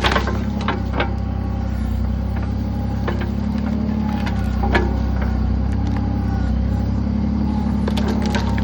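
Kubota backhoe's diesel engine running steadily under load, with scattered sharp knocks and clanks over it.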